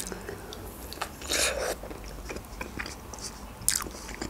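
Close-miked mouth sounds of eating a boiled khinkali dumpling: biting and chewing with small wet clicks, and a short louder hiss about a second and a half in, with a briefer one near the end.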